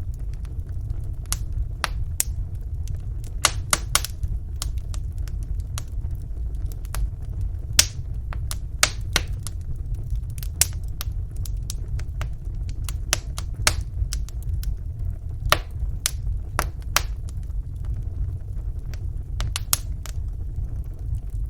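Wood fire burning in a fireplace: a steady low rumble of the flames with sharp, irregular crackles and pops from the burning logs.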